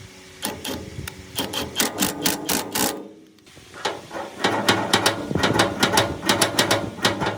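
Rapid, even knocking or tapping, about four to five strikes a second. It comes in two runs with a short break about three seconds in.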